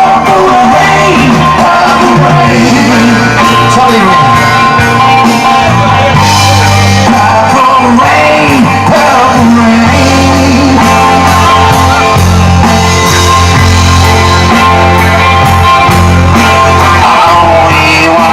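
Rock band playing live and loud, with electric guitar, bass and singing.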